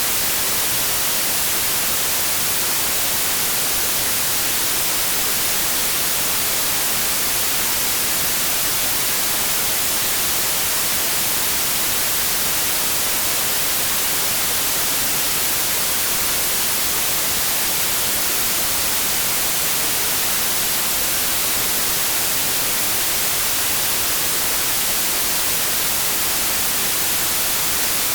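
Synthetic white noise: a steady, even hiss with no changes or events.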